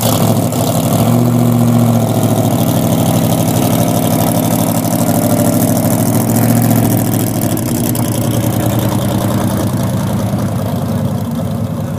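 Car engine running after start-up, idling with two brief rises in revs, about a second in and around six seconds in, before settling back to a steady idle.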